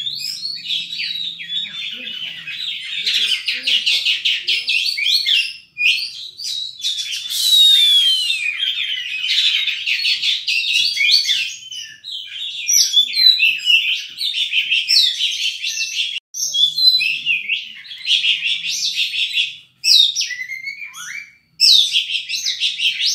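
Oriental magpie-robin singing a fast, loud, varied song packed with imitated phrases, with a few short breaks.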